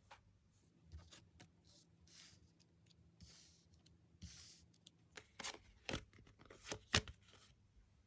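Tarot cards being handled on a table: a few soft sliding swishes, then a series of sharp taps and clicks as cards are laid down, the loudest about seven seconds in.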